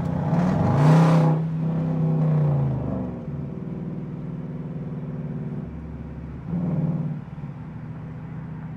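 Car engine revving: it rises sharply about half a second in, holds high, and falls back near three seconds. A second, shorter rev comes near seven seconds, over a steady engine drone.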